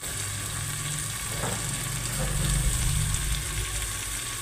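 Spiced onion masala frying in mustard oil in an aluminium pressure cooker: a steady sizzle, with a low steady hum underneath.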